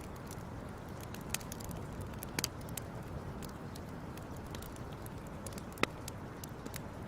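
Wood fire crackling: a steady low rush with scattered sharp pops, the loudest nearly six seconds in.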